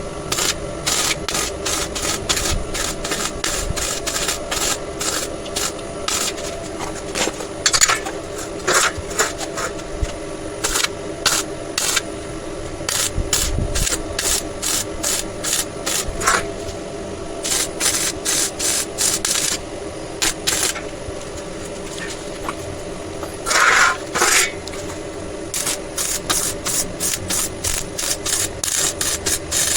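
A hand file or hacksaw rasping back and forth on steel, about two strokes a second, in runs with short pauses, over a steady low hum.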